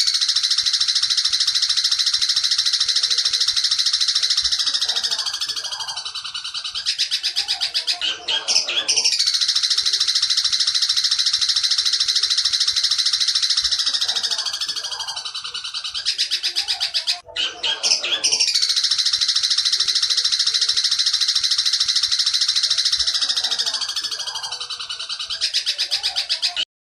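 Recorded bird-tutoring song for a long-tailed shrike (cendet): three long, very rapid, chattering trills, each with a falling slide near its end and a short break between. The last trill cuts off abruptly near the end as the track goes into its pause.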